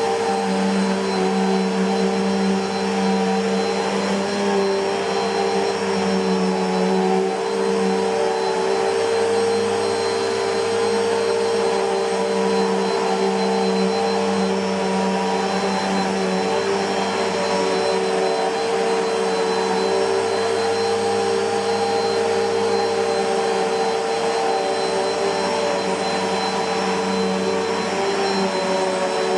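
Bissell PowerForce Helix Turbo (2190) bagless upright vacuum cleaner running steadily, a constant motor drone with a high whine over it.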